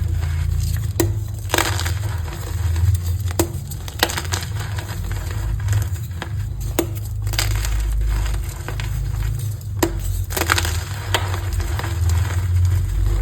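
Reformed gym chalk being crushed and squeezed by hand: crisp cracks and crunches at irregular moments, over a low steady rumble.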